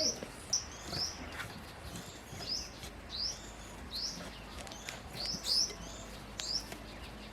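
Small birds chirping: about a dozen short, high, downward-sliding chirps at irregular intervals, over a faint low hum.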